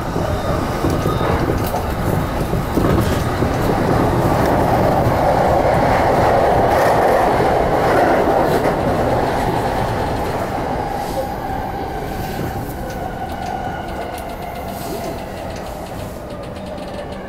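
JR Yamanote line electric commuter train running on the rails, heard from inside the front car: a steady rumble with wheels clacking over the track. It swells about halfway through, then gradually quietens as the train slows.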